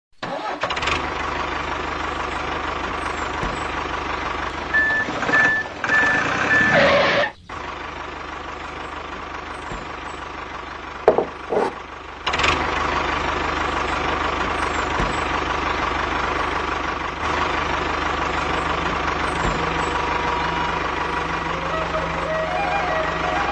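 A heavy vehicle's engine running steadily, with four short, evenly spaced high beeps about five seconds in. It cuts to a quieter run with a couple of knocks near eleven seconds, then comes back louder and steady.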